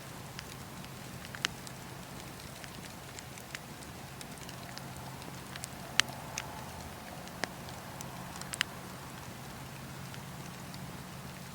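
Campfire crackling: a steady low hiss with irregular sharp pops and snaps of burning wood, the loudest about halfway through.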